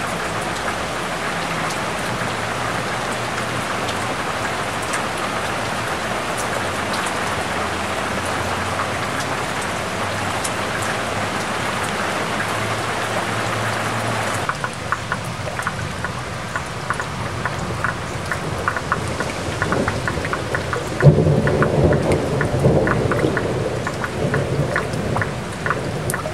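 Heavy rain pouring onto the taut vinyl cover of an above-ground pool as a dense, steady hiss. About halfway through it thins to separate drops pattering and splashing. About three-quarters in, a loud rumble of thunder rolls in and fades over a few seconds.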